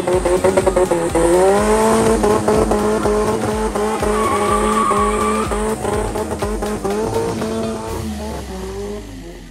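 A car drifting: the engine held at high revs, rising about a second in, with tyres squealing, over background music with a steady beat. It fades near the end.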